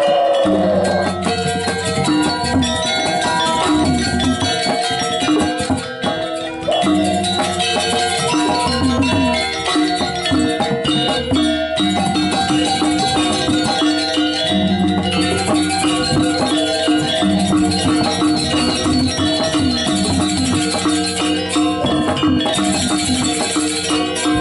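Balinese gamelan playing: ringing metallophone and gong tones over a low sustained note, with fast, dense clashing cymbals throughout.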